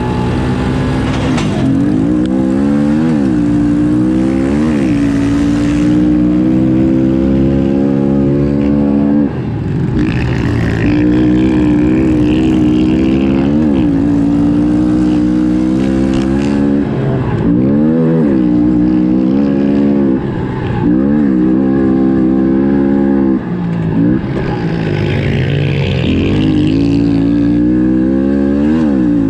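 Small single-cylinder four-stroke pit bike engine, a Honda CRF110F, revving hard under load. Its pitch climbs and then drops sharply again and again as the throttle is chopped and gears are shifted.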